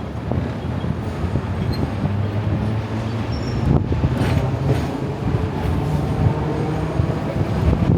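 Hong Kong double-decker electric tram running on its rails: a steady low rumble with a few short knocks about four seconds in.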